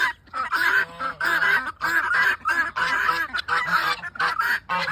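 A barnyard flock of geese and guinea fowl calling over one another: honks and harsh, rapid guinea calls repeating in quick succession, with barely a pause.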